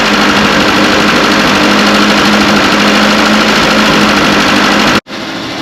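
Carburettor petrol engine with points ignition running steadily at a constant speed, loud and close. About five seconds in the sound cuts off sharply, then a quieter, similar running sound follows.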